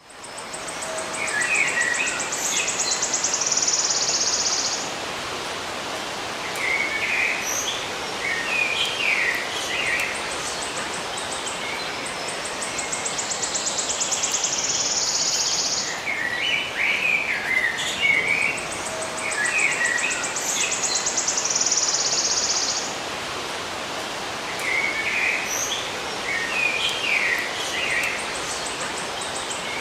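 Birds chirping in short clustered bursts over a steady background hiss, with a fast, high pulsing buzz like an insect's. The same passage plays twice, about 15 seconds apart, as a loop.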